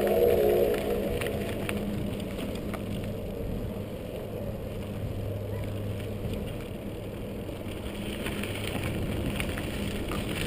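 Steady riding noise from an electric-converted Schwinn mountain bike: tyre and wind rumble with a low, steady hum throughout and a few light clicks. A chord of held tones fades out in the first second.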